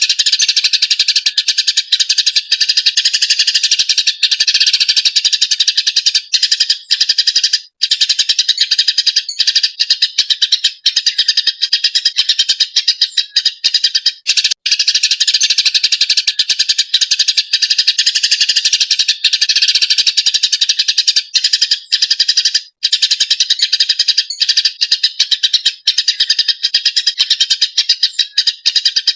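Eurasian tree sparrow chattering agitatedly: a dense, rapid stream of sharp chirps, with only a few brief breaks.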